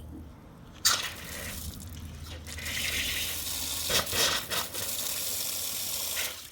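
Water pouring or running steadily, starting suddenly about a second in and stopping abruptly near the end.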